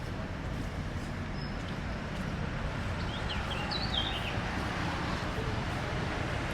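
Steady low rumble of street traffic, with a brief bird chirp about a second and a half in and a quick run of short chirps around three to four seconds in.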